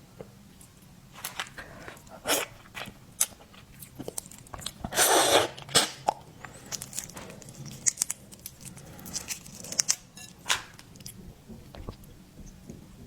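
Close-up mouth sounds of a person eating seafood: chewing and crunching, with many short clicks and crackles and one longer noisy burst about five seconds in.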